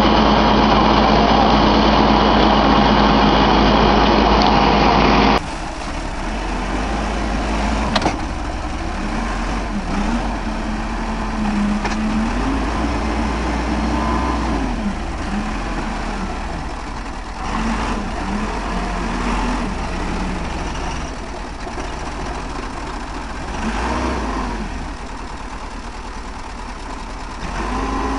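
Heavy machine engine running, steady and loud. About five seconds in it cuts to another recording of an engine working, its pitch rising and falling, with a sharp knock shortly after the cut.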